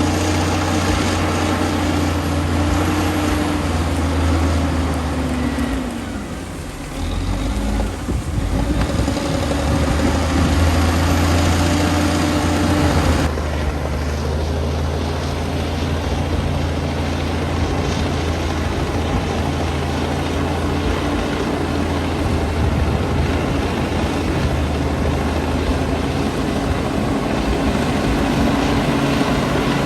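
Komatsu D60P swamp bulldozer's diesel engine running under load. About six seconds in the engine note dips and falls, then picks back up. At about thirteen seconds the sound shifts abruptly.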